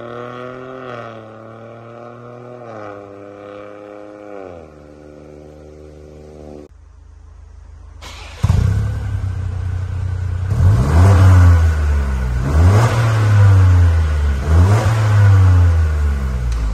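Ford Focus Mk4's 1.5-litre turbocharged three-cylinder engine through an aftermarket stainless-steel dual-valve exhaust: it idles with the revs settling down in steps, then about halfway through the exhaust note gets suddenly much louder and the engine is blipped about five times, each rev rising and falling back.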